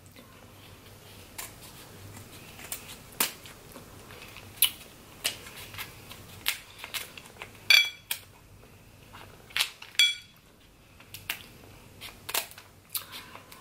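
Crab leg shells cracking and snapping as they are broken open, a string of sharp, irregular cracks, with a couple of brief ringing clinks about eight and ten seconds in.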